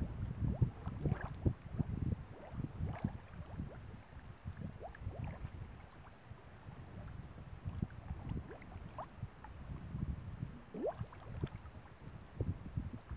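Water bubbling and plopping in quick irregular blips, some rising briefly in pitch, over wind buffeting the microphone in gusts.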